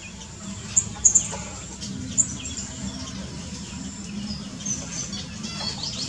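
Small birds chirping: short, high calls scattered irregularly, over a faint low steady hum.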